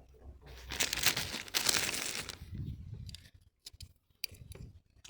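Crinkling, rustling noise lasting about a second and a half, followed by a few light clicks and taps.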